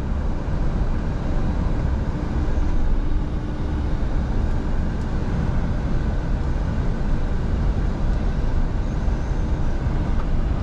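Scania V8 diesel truck on the move: a steady engine and road rumble, strongest in the bass, with no gear changes or sudden events.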